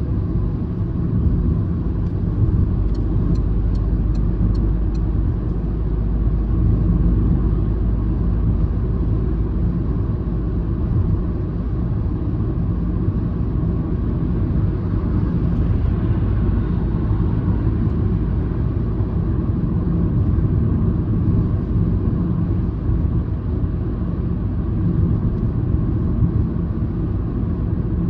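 Steady in-cabin drone of a Citroën C-Elysée's 1.2-litre EB2 PureTech three-cylinder engine and its tyres on the road while the car drives at an even pace: a constant low rumble with no revving.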